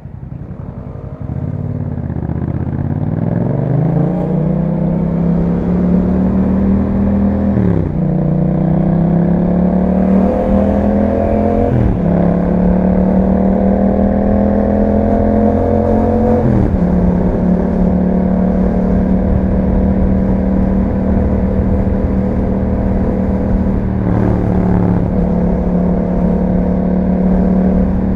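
2021 Yamaha MT-07's parallel-twin engine through an Akrapovic exhaust, accelerating up through the gears: the pitch climbs, drops sharply at three upshifts about eight, twelve and sixteen seconds in, then settles into a steady cruise.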